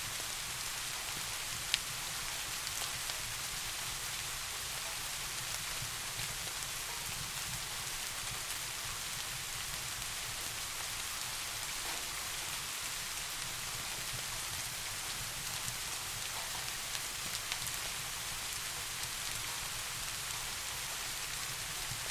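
Steady soft rain falling, an even hiss with a few scattered sharp ticks, the clearest about two seconds in.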